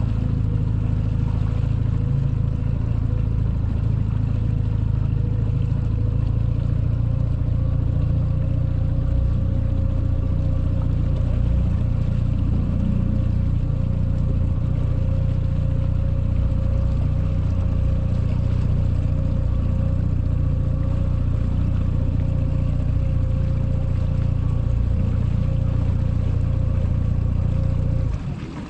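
Boat's outboard motor running steadily at constant speed, with a steady drone and hum; the sound drops off sharply near the end.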